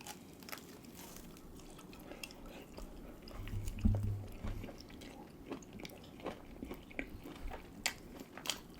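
People chewing and biting food, with many small wet clicks of eating. A brief low hum sounds near the middle.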